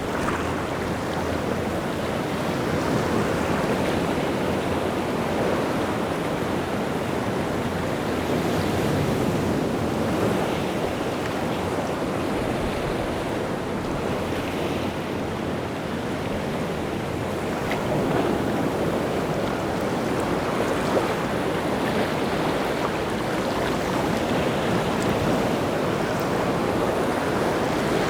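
Rough sea surf breaking and washing continuously on the shore, swelling and easing every few seconds, with some wind.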